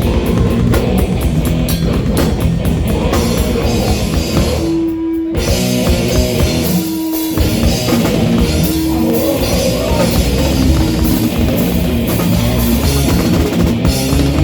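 Live rock band playing loud, with drum kit and guitar. About five seconds in, the drums drop out briefly, leaving held notes, and then the full band comes back in.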